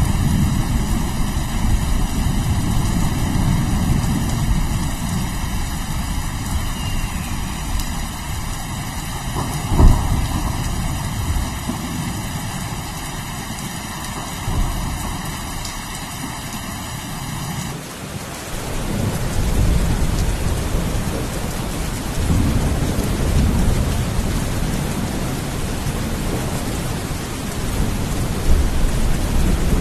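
Heavy rain with rolling thunder rumbling throughout. There is a sharp thunderclap about ten seconds in, and the rumbles swell again in the second half.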